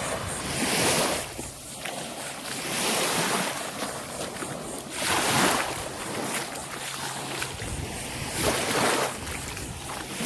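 Waves breaking and washing up the beach, swelling and falling away about four times, with wind on the microphone.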